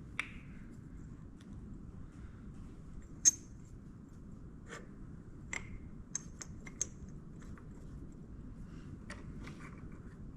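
Scattered metallic clicks and clinks of lathe tooling being handled and fitted, with one sharper click about three seconds in, over a faint steady low hum.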